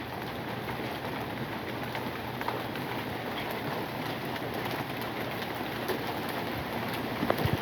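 Hail falling steadily: a dense, even patter of hailstones striking the ground and nearby surfaces, with a few sharper hits near the end.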